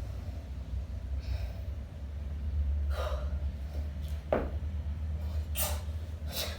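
Sharp, forceful breaths, four in a few seconds, from a kettlebell lifter working through a one-arm long-cycle set, over a steady low hum.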